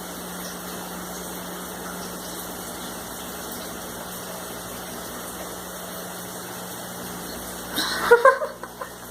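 Shower spray running steadily, a constant even rush of water with a faint low hum under it.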